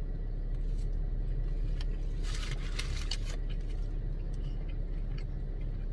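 Steady low rumble of an idling vehicle engine, with a short rustle about two seconds in.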